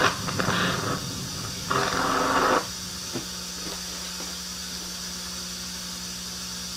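Audio of a creepy YouTube horror video playing through speakers: a rushing, static-like hiss for about the first two and a half seconds, then a steady low hum with a faint hiss.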